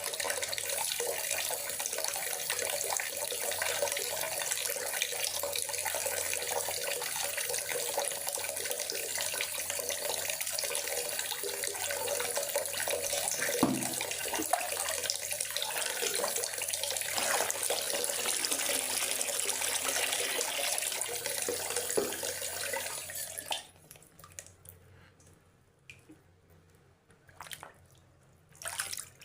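Steady rain hissing on foliage that cuts off abruptly about three quarters of the way through, leaving quiet with a few scattered drips.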